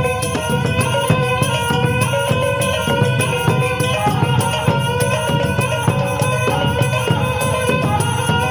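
Minangkabau traditional music: talempong gong-chimes struck in a quick, even rhythm over the held tone of pupuik pipes (buffalo-horn pupuik tanduak and rice-stalk pupuik batang padi).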